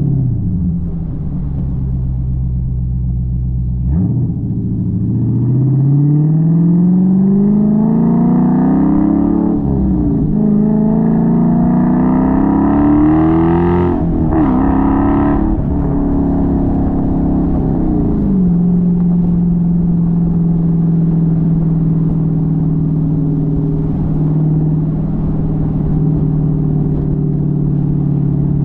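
Dodge Challenger's engine and exhaust under hard acceleration on the road: the pitch climbs from about four seconds in, drops at gear changes about ten and fourteen seconds in, then falls as the throttle eases. The engine then settles into a steady cruise for the rest of the time.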